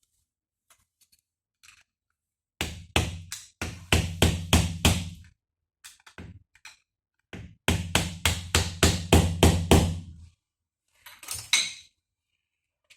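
Hammer blows on a GAZelle steering gearbox part in two runs of about ten quick strikes each, about four a second, with single knocks between them. The hammering is driving at a stuck part that has gone oval and won't come out.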